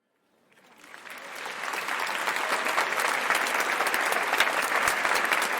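Crowd applause, a dense patter of many hands clapping, fading in from silence and then holding steady.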